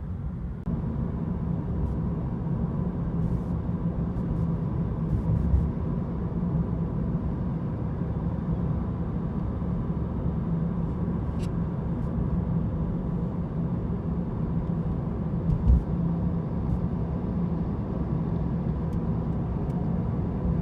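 Steady low rumble of motor traffic, like road noise from cars moving on a freeway, with a few faint clicks and one low thump.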